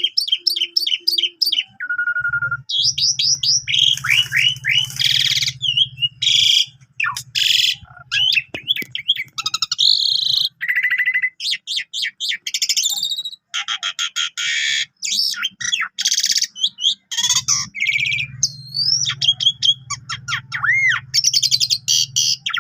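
Javan pied starling (jalak suren) singing a loud, varied song: rapid trills, whistled glides and harsh rasping notes in quick succession. A low buzzing hum runs underneath twice, for several seconds each time.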